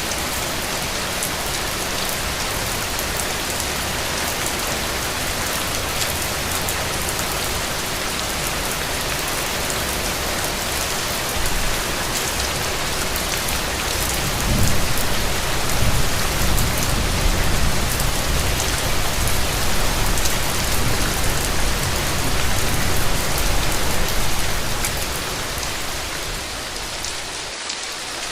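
Steady rain falling and pattering on hard surfaces. About halfway through a deep low rumble swells in under the rain, lasts some ten seconds, then eases off.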